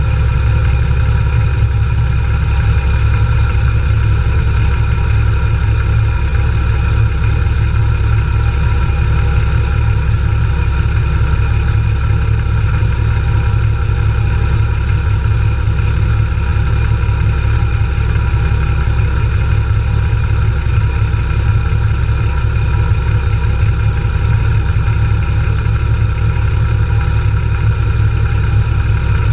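Off-road jeep's engine idling steadily with the vehicle at a standstill, a constant low-pitched sound with no revving.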